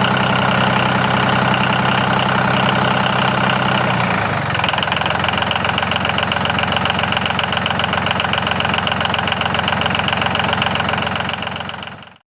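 A motor running with a steady rhythmic chugging. About four seconds in its tone shifts and the rhythm quickens, and it fades out just before the end.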